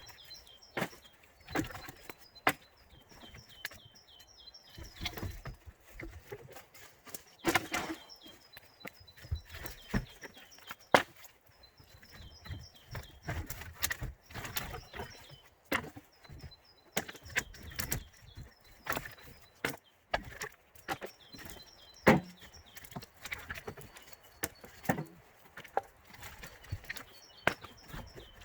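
Firewood logs being unloaded by hand and tossed onto a pile, giving irregular hollow wooden knocks and clatters, several a few seconds apart and some close together. Faint bird chirping runs between the knocks.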